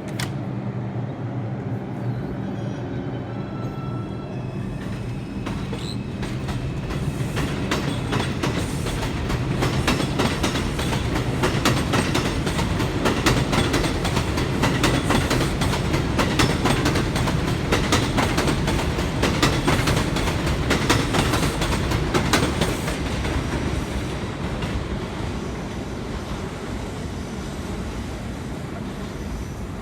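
Subway train pulling out and running on the track: a steady low hum at first, then wheels clicking rapidly over rail joints, growing louder through the middle and easing off toward the end.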